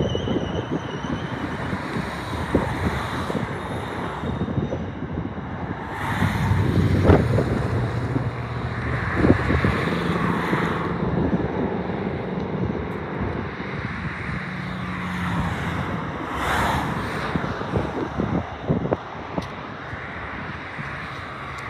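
Freight train of grain hopper wagons rolling past: a steady rumble of wheels on rail, with scattered clicks and clunks as wheels pass over rail joints. A low hum is also heard for several seconds in the middle.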